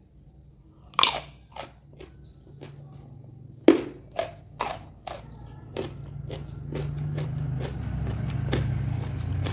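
Close-miked biting and chewing of crisp raw lalapan. There is a loud crunching bite about a second in and another a little before four seconds, then a run of smaller crunches as it is chewed. A low hum grows louder toward the end.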